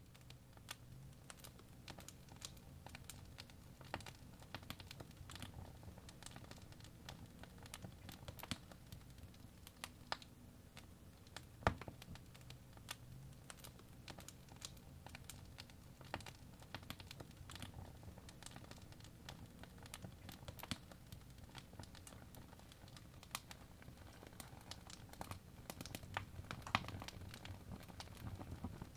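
Fireplace crackling: faint, irregular sharp pops over a low steady rumble, with a few louder pops among them.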